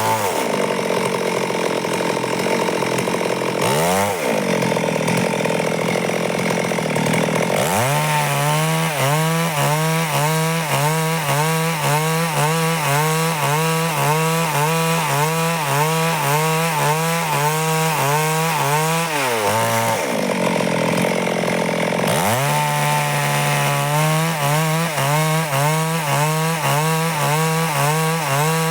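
Stihl chainsaw running at high revs, cutting lengthwise through wood. The engine note wavers evenly under load and several times dips and climbs back up.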